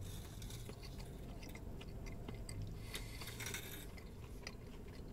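A man chewing a mouthful of bacon cheeseburger with mushrooms, with faint small wet mouth clicks over a low steady hum.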